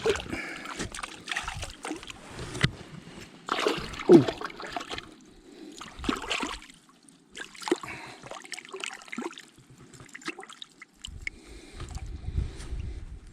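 Irregular water splashing and trickling, in uneven bursts, as a hooked trout thrashes at the surface while it is reeled in on a light spinning rod. Low wind rumble on the microphone near the end.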